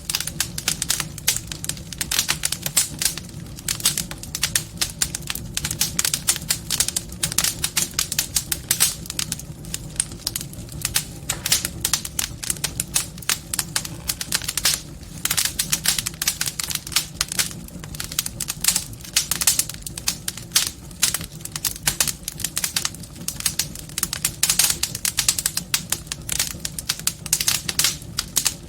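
Wood fire burning in a fireplace, crackling and popping in dense, irregular snaps over a low rumble of flame.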